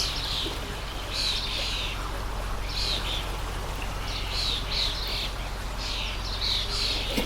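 Small birds chirping in short bursts about once a second over the steady rush of a flowing stream.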